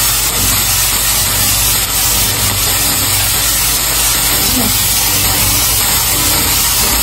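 Diced bell peppers and ham sizzling steadily in a hot frying pan, a constant loud hiss.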